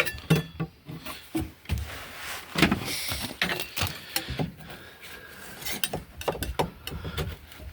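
Irregular knocks, clicks and short scrapes from hand work on a car's stripped floor and bodywork.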